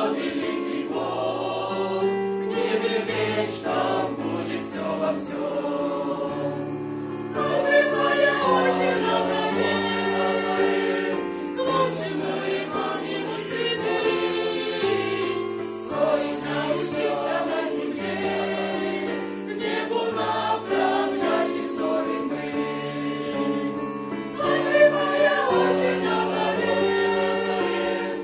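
A church choir singing a Christian song in several voice parts, holding sustained chords; it grows louder about seven seconds in.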